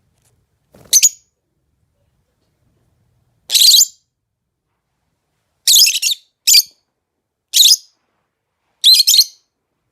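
Lovebird giving short, high-pitched chirping calls: about six separate bursts with silence between them, coming more often in the second half.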